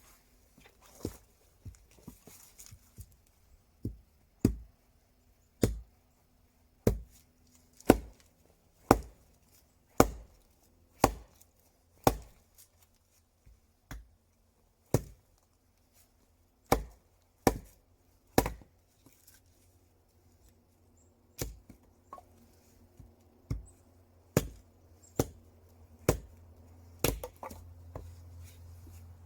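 Wood being chopped: sharp single blows about once a second, with a pause of about three seconds past the middle.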